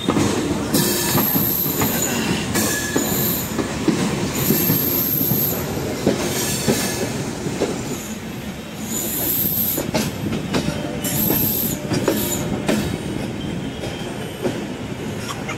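Passenger train coaches running along the track, heard from an open coach doorway: a steady rumble and hiss, with wheel clacks and short high-pitched wheel squeals that recur every second or two.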